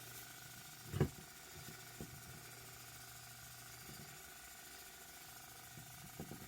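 Small electric tumbler-turner motor humming steadily and faintly, with one low knock about a second in and a few light taps later.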